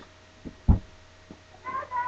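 A single dull thump about two-thirds of a second in, with a couple of faint knocks around it. Near the end a high, wavering, whine-like call begins.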